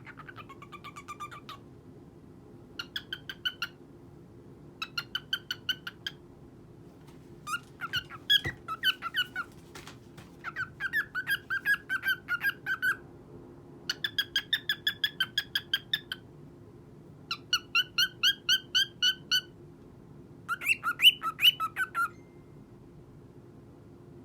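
Cockatiel calling in eight short runs of rapid repeated chirping notes, several notes a second, with pauses of about a second between the runs.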